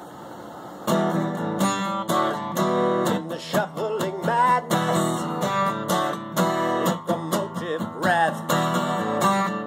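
Acoustic guitar strumming chords, starting about a second in, with a few notes gliding in pitch between the strums.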